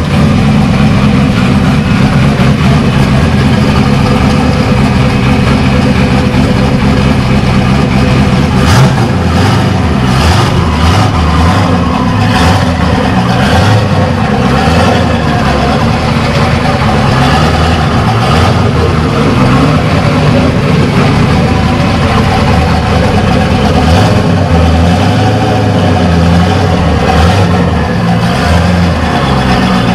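Twin-turbo LS1 V8 of a Pontiac Trans Am running loud under light driving, its note shifting gently with engine speed. About a third of the way in comes a run of short rushes of noise.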